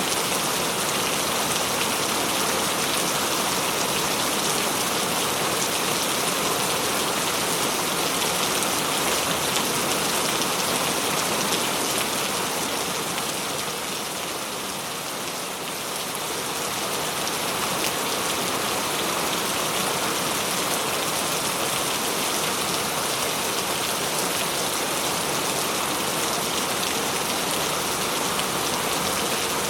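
Heavy rain falling steadily, a dense hiss of many drops on surfaces, easing slightly for a couple of seconds about halfway through before returning.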